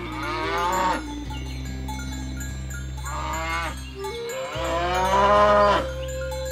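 Cattle mooing: three calls, the last the longest and loudest, over background music.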